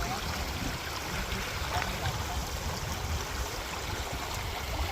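River water running steadily, a constant rushing noise with no distinct events.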